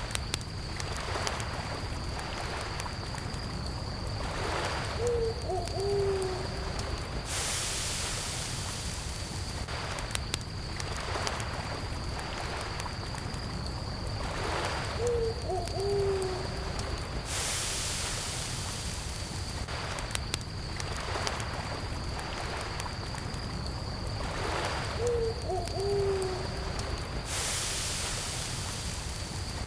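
Campfire crackling beside gently lapping lake water, with crickets chirring steadily at a high pitch throughout. A short, low hooting call comes once every ten seconds, about five seconds in, again in the middle, and near the end.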